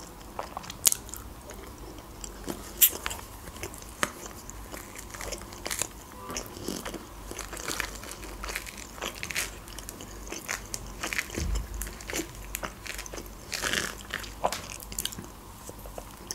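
Close-miked eating sounds: sharp crunchy bites and chewing of a fried dumpling, then the tearing and crackle of a mandarin's rind being peeled by hand.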